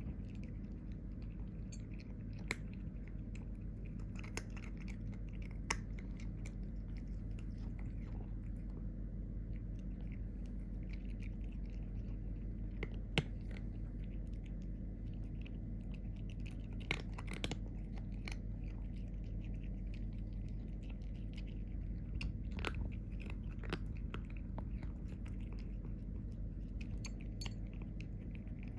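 A cat chewing, with scattered sharp crunches over a steady low hum.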